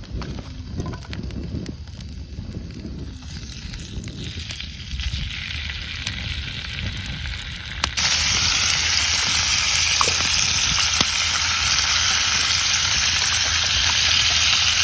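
Food frying on a hot pan, most likely okonomiyaki batter. Quieter sizzling with some handling knocks in the first half, then a sudden jump about halfway through to loud, steady sizzling.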